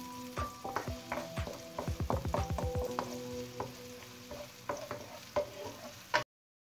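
Chopped onion and garlic sizzling in olive oil in a nonstick wok, stirred with a wooden spatula that scrapes and taps against the pan, with a quick run of strokes about two seconds in. The sound cuts off abruptly about six seconds in.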